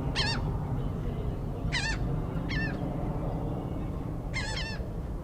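Birds calling: four short, sharp honking calls, each a quick wavering note, spread a second or two apart over a steady low rumble.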